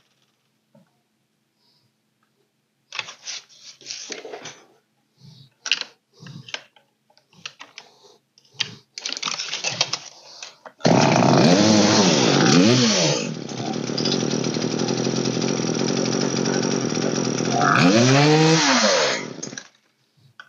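Short knocks and rattles of the saw being handled, then the old Poulan two-stroke chainsaw starts about halfway through. It is revved up and down, runs at a lower, steadier speed, is revved again and cuts out just before the end.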